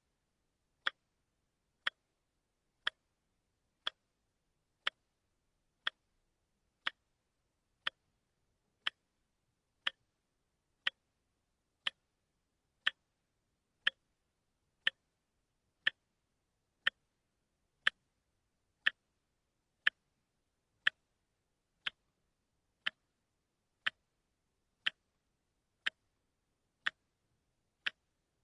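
Watch ticking once a second, each tick short and sharp with silence between: the one-step-per-second beat of a quartz movement's second hand.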